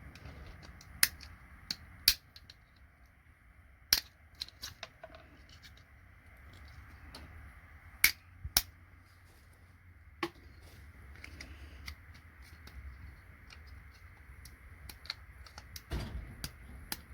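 Hand tools clicking and snapping against a plastic-and-metal computer connector as it is pried apart for its gold-plated pins: scattered sharp clicks, the loudest pair about eight seconds in, and a low knock near the end.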